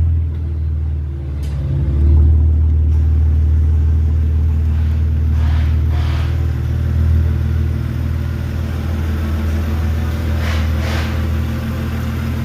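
BMW 3 Series convertible exhaust rumbling steadily at low revs, swelling louder about two seconds in, then holding.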